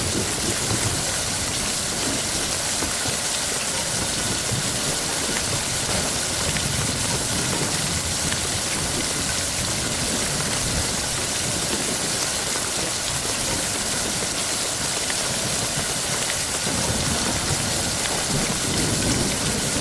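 Heavy rain falling steadily, a dense even hiss, with a low rumble of thunder that swells near the end.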